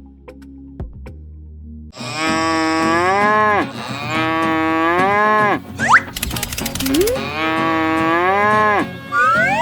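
Cow mooing three times, each call about a second and a half long and dropping in pitch at its end. Brief rising glides come after the second and third moo.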